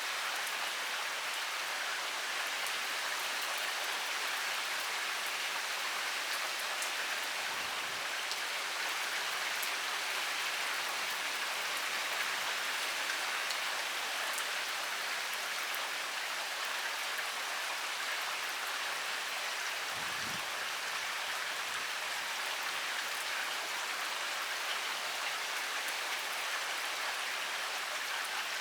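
Heavy rain pouring steadily: a dense, even hiss with scattered sharper drop hits.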